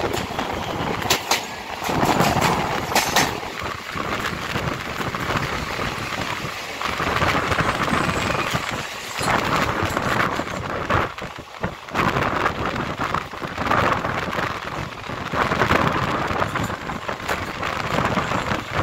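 Rushing wind and wheel-on-rail clatter heard from the open doorway of a moving passenger train as another passenger train passes close by on the next track, with sharp clicks in the first few seconds. Once the other train has gone, the running noise of the train itself carries on.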